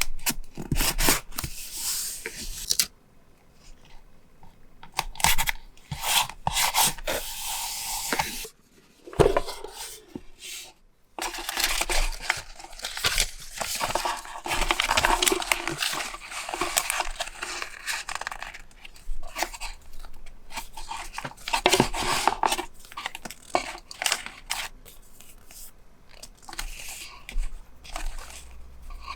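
Paper being torn, rubbed and rustled by hand, in several longer noisy passes broken by scattered sharp taps and clicks.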